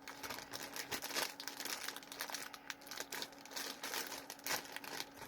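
A plastic bag of Kool-Aid jelly beans crinkling as it is handled, in irregular crackles.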